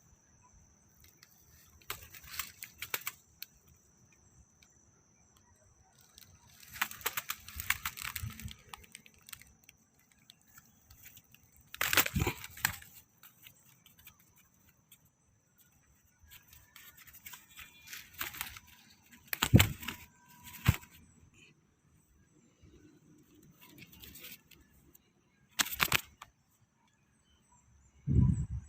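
Irregular bursts of rustling and crackling, as of leaves, brush or netting being handled, with a few sharper knocks, over a faint steady high-pitched tone.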